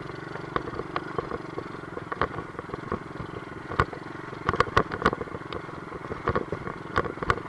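Small 50cc dirt bike engine running steadily under load, with frequent sharp clanks and rattles as the bike bounces over rough rocky ground, including hard knocks as the suspension bottoms out.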